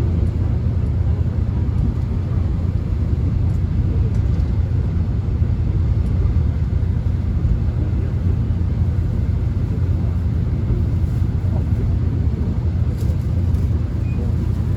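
Steady low rumble of a subway train running, heard from inside the carriage.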